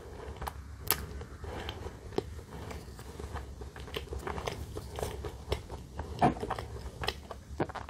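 Close-miked chewing of a mouthful of soft cream bread: irregular wet mouth smacks and small clicks, with a few louder smacks.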